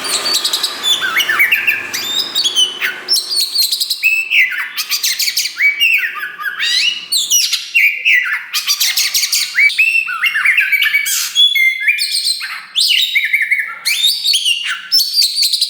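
Black-plumaged (wulung) oriental magpie-robin singing loudly and without pause, a fast, varied run of clear whistles, sweeping phrases and harsher rasping notes.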